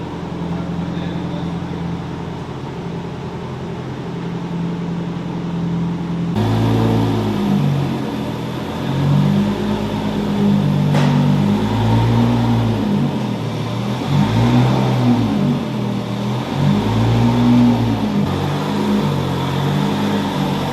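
BMW M3 Competition engine heard from inside the cabin, running steadily at low revs, then about six seconds in it pulls away hard, revs climbing and dropping several times as it accelerates through the gears.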